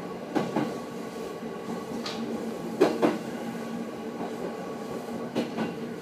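JR 209 series electric train running, heard inside the driver's cab: a steady rumble broken three times by a double clack of wheels over a rail joint, about two and a half seconds apart.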